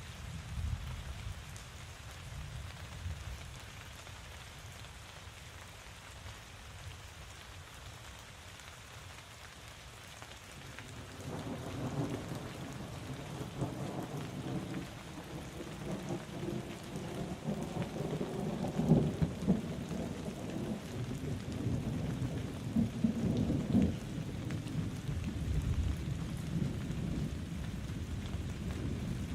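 Steady rain falling, with thunder rumbling in about a third of the way through and rolling on in several swells.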